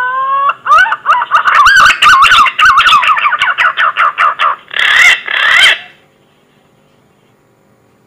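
Punai (green pigeon) lure call: a whistled song that opens on a rising whistle, then breaks into a quick run of wavering, warbling notes, and ends with two louder, rougher notes about five seconds in.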